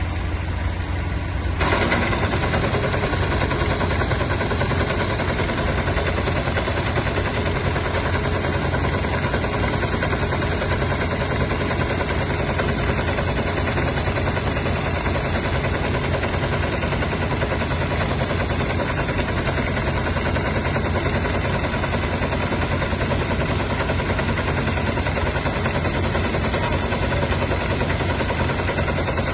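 Old Massey Ferguson 630S harvesting wheat, its engine and machinery running steadily. About two seconds in, the sound jumps louder and fuller, then holds steady.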